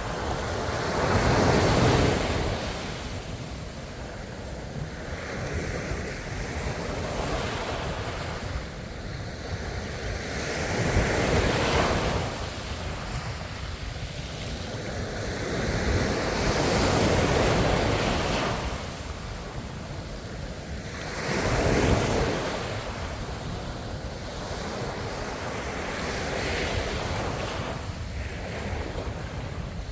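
Ocean waves breaking and washing in on the shore: a steady rush of surf that swells into a louder crash every several seconds and then fades back.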